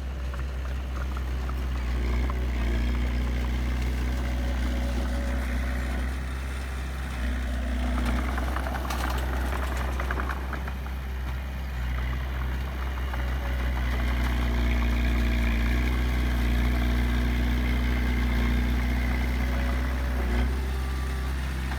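Diesel engine of heavy earthmoving machinery running steadily, with a stretch of rattling and clatter about eight to ten seconds in.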